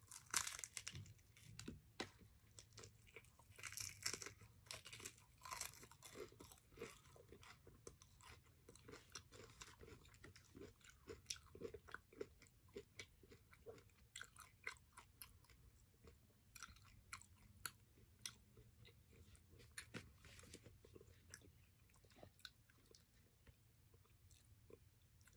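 A person chewing crispy fried chicken close to the microphone, with small crunches of the breaded skin. The crunching is loudest in the first few seconds, then continues more softly as steady chewing.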